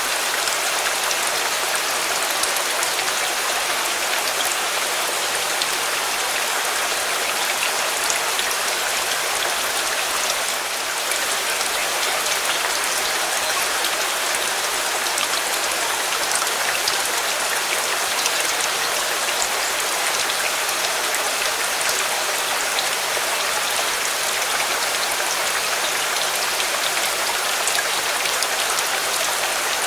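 Steady, even rainfall, with faint scattered ticks of single drops through it.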